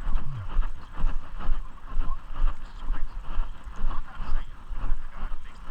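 Walking footsteps, about two a second, with a low rumble on the microphone as it jolts with each step.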